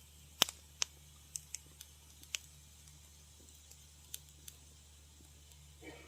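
Wood fire crackling: irregular sharp pops and snaps, the loudest about half a second in, then sparser, with a brief softer sound near the end.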